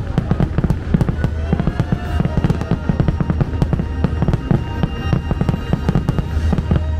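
Fireworks finale barrage: a rapid, dense run of shell bursts and crackling bangs, several a second, over a steady low rumble, with a few falling whistling tones among them.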